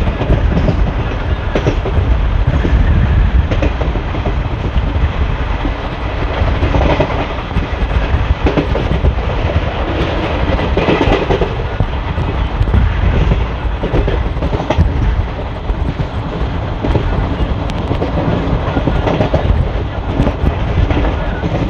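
ICF passenger coach running along the track, heard from a window seat inside the coach: a steady rumble of wheels on rail with frequent clicks and clatter from the rail joints.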